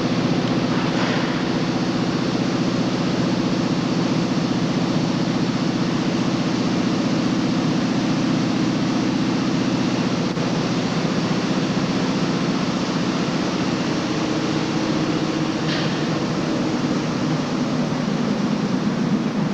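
NYC subway work train of converted R22 and R30 cars running, a steady rumble with a constant low motor hum. Two brief faint high squeals come through, one about a second in and one near the end.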